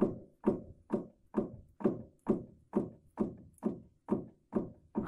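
Front-axle differential knocking as the left front drive shaft is jerked back and forth with the propeller shaft slack: a regular metallic clunk about twice a second, each with a short ringing tail. The knocks come from excessive play in the front differential, which the owner judges abnormal for a new car and due for replacement.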